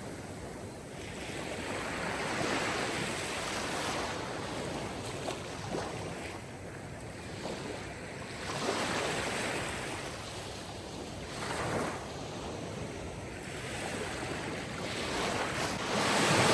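Sea waves breaking on a shore, each surge swelling and washing back every few seconds; the loudest wave comes near the end.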